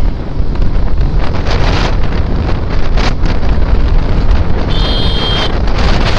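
Wind rushing over the microphone of a rider on a moving Suzuki Gixxer SF 250 motorcycle, with engine and road noise under it. A short, high-pitched beep sounds about five seconds in.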